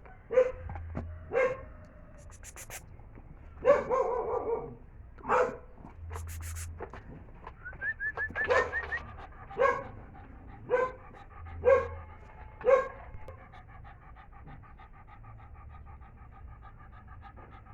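Bully pit bull puppy giving repeated short, sharp barks and yelps, with a quick run of high whines in the middle and a long, steady whine near the end: excited begging for its food.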